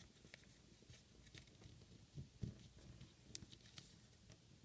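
Faint rustles and light ticks of origami paper being folded in and creased by hand, scattered through near silence, with a couple of slightly louder ticks in the middle.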